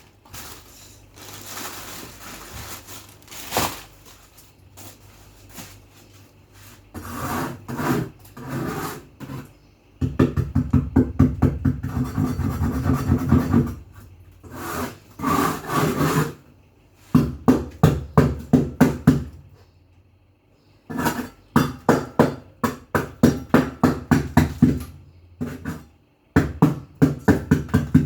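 Rhythmic scrubbing strokes, about four to five a second, in bursts of a few seconds with short pauses between, and scattered light knocks in the first few seconds.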